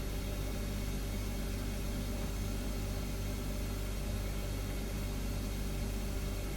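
Refrigerator humming steadily: a constant low hum with a few fixed tones over a faint hiss.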